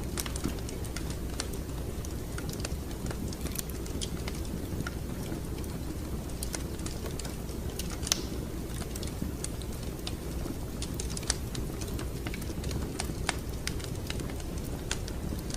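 Fireplace fire crackling: irregular sharp pops and snaps over a steady low rumble, with a louder pop about eight seconds in and another a few seconds later.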